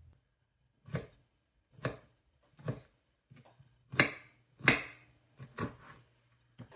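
A series of about seven sharp taps and knocks at irregular intervals, the loudest about four and five seconds in.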